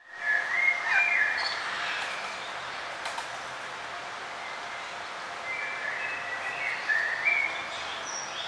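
Songbirds chirping and trilling in short high phrases over a steady background hiss, loudest in the first second or so and again from about five and a half seconds in.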